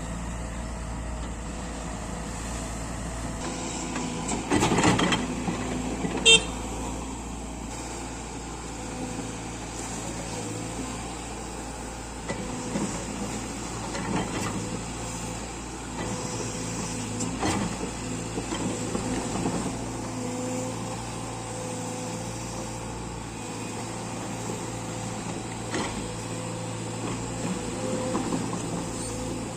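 Diesel engines of a backhoe loader and a tractor running steadily at a work site, with a louder stretch about four and a half seconds in and one short, sharp, ringing sound about six seconds in.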